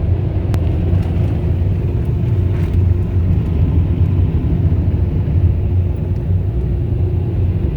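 Automatic car wash air dryers blowing hard on the car, a loud steady roar heard from inside the car.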